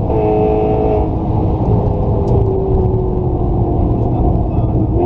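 Car engine running hard at speed over heavy low road and wind rumble; its pitch drops just at the start and then falls slowly as the car eases off.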